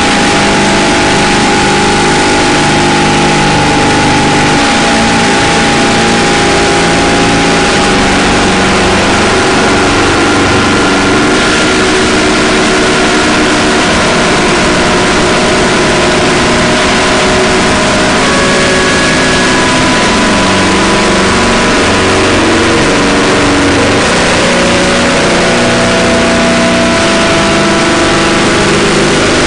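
Harsh noise drone music: a loud, unbroken wall of distorted noise with layered held tones that slowly shift in pitch, changing texture slightly around twelve seconds in and again near the end.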